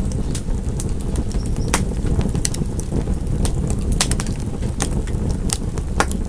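Wood fire crackling: irregular sharp pops and snaps from the burning wood, about two a second, over a steady low rumble of the flames.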